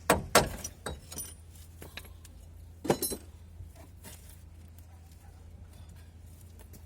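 Metal tools and parts clinking and knocking, as in hand work on a car's front suspension. There are several sharp clinks in the first second and a half and another cluster about three seconds in, over a steady low hum.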